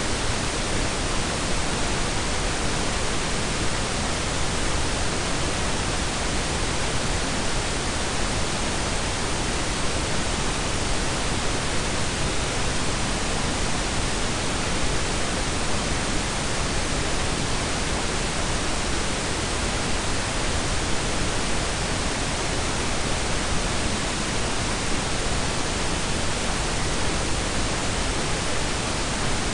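Steady synthetic blend of pink and brown noise: an even, unchanging hiss with a deep rumbling low end, no tones and no events.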